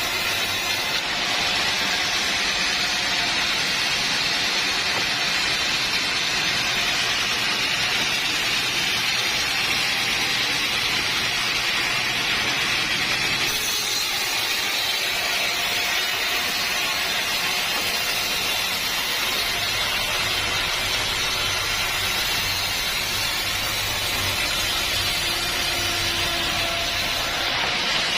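Sawmill running, its saw cutting through a teak log with a steady hiss over the engine's drone.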